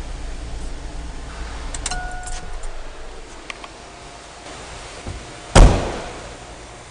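A vehicle door slammed shut once, about two-thirds of the way through, after a few small clicks and rattles.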